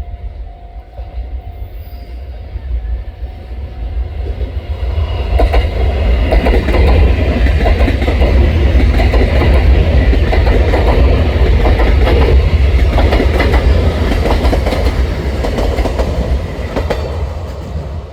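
Puyuma Express tilting electric multiple unit (TEMU2000) passing at speed: a rumble that builds as it approaches, several seconds of loud wheel clatter over the rails, then falling away near the end.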